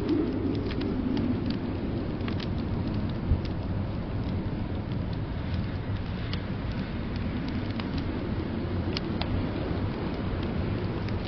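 Wood fire crackling with sparse sharp pops, one louder pop about three seconds in, over a steady low rumble of blizzard wind.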